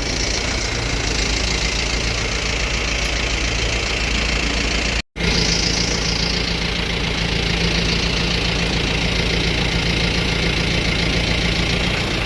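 Tractor engine running steadily under load as it pushes hay bales, with a brief break in the sound about five seconds in.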